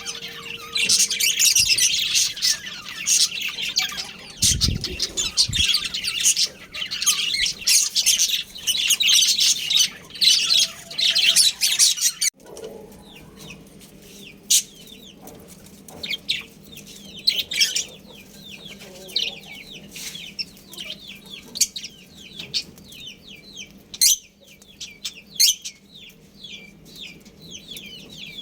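Budgerigars chattering with dense, rapid high chirps and warbles. About 12 seconds in the sound changes abruptly to quieter, sparser quick falling chirps. A brief low rumble comes about 5 seconds in.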